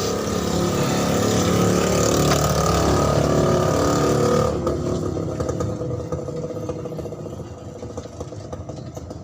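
A motor vehicle engine running, loud for about four and a half seconds, then dropping off abruptly and fading away.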